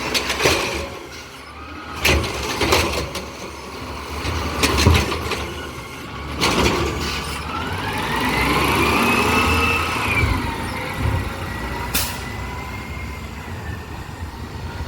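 Garbage truck running, its engine rumbling, with several short sharp noises and, about halfway through, a whine that rises and then falls in pitch.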